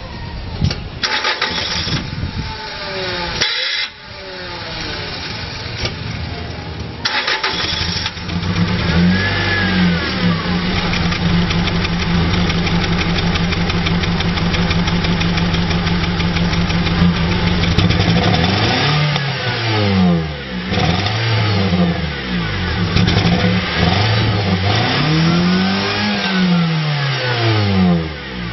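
1990 Acura Integra's four-cylinder engine through its stock exhaust, idling and revved several times: once about nine seconds in, a few quick blips around twenty seconds, and a longer rise and fall near the end. The owner blames its bad sound on corroded, rusty spark plugs, likely misfiring.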